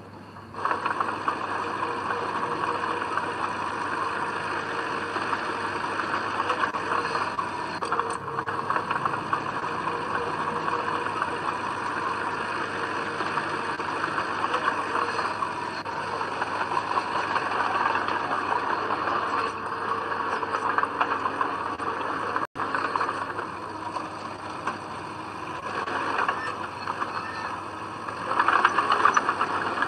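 Diesel engine of heavy earthmoving machinery running steadily, growing louder near the end.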